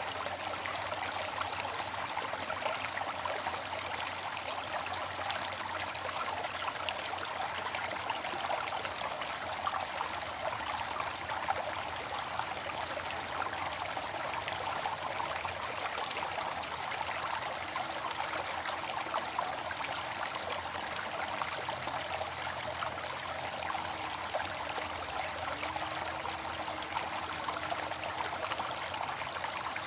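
Water fountain splashing and trickling steadily.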